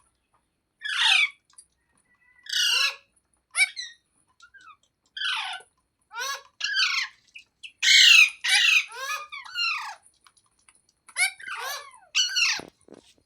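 A green ringneck parrot giving a series of short, harsh squawking calls, about a dozen in bursts with pauses between, the loudest cluster about two-thirds of the way through.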